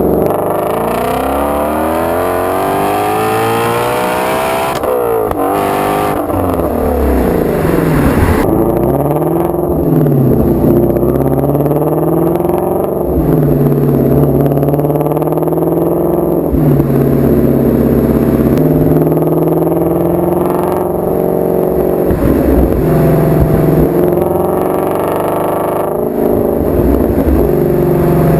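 2016 Shelby GT350's 5.2-litre flat-plane-crank V8 under hard acceleration, its note climbing for the first four seconds and dropping sharply at a gear change. It then rises and falls again and again, every two to three seconds, through a run of shifts and throttle changes.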